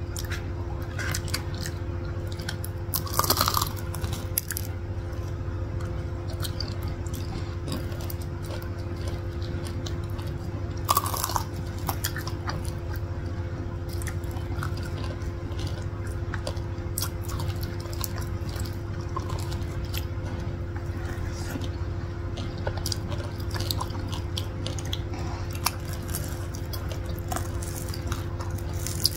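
Close-up chewing and biting of crispy corn dogs, one coated in potato cubes and filled with stretchy cheese: soft wet chewing with scattered small crunches and clicks. There are two louder sounds about three seconds in and again about eleven seconds in, over a steady low hum.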